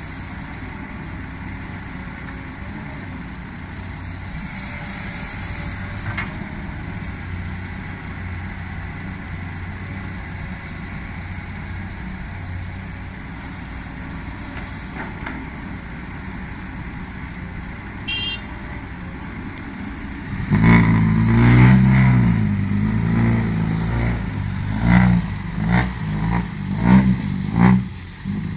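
Heavy diesel engine of a Komatsu PC200 hydraulic excavator running steadily. About two-thirds of the way through it revs up loudly under load, and a string of sharp knocks and clanks follows near the end.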